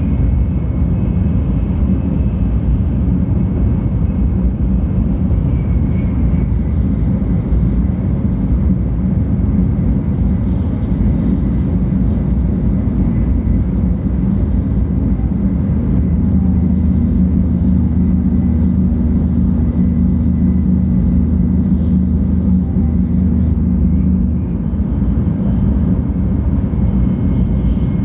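Cabin running noise of a 700 series Shinkansen at speed: a steady low rumble. Past the middle, a low hum rises out of it for several seconds, then drops back.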